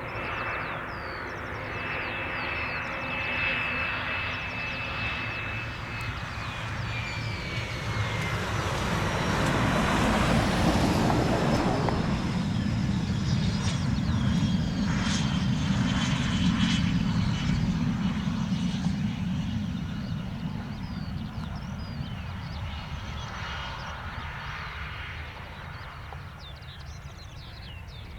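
Cessna Citation CJ3+ business jet with twin turbofans passing, its engine whine and low rumble swelling to a peak about halfway through, then fading.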